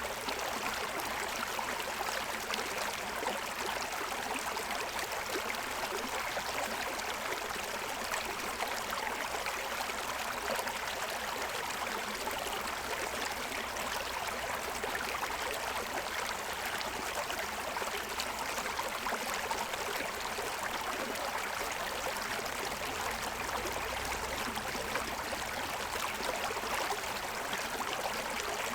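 Stream water running and splashing over the stones of its bed, a steady unbroken rush.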